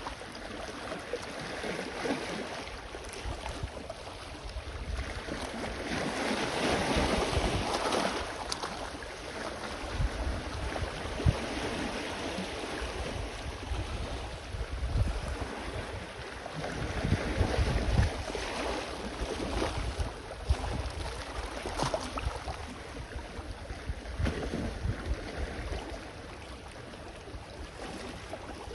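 Sea waves washing ashore in a steady rush that swells louder twice, with gusts of wind buffeting the microphone.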